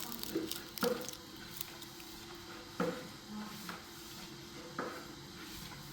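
A few light knocks and clatters, spaced a second or two apart, over a faint steady hum.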